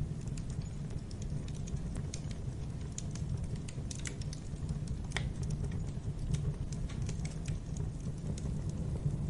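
Wood fire in a fireplace crackling, with irregular pops and snaps over a low steady rumble of the flames; one louder pop about five seconds in.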